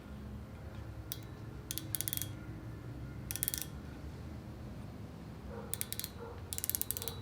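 Micrometer's ratchet thimble clicking in five quick runs as the spindle closes on a crankshaft journal; the ratchet slipping means the set measuring pressure has been reached.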